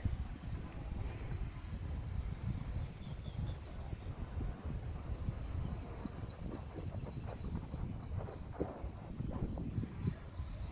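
Honeybees buzzing around an open hive: a steady high insect whine over a rumble of wind on the microphone.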